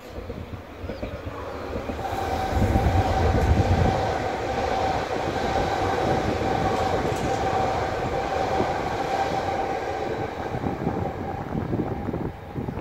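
Two coupled Sm5 (Stadler FLIRT) electric commuter units passing at speed: wheels rumbling on the rails with a steady whine over them. It is loudest about two to four seconds in and eases slightly near the end as the train moves away.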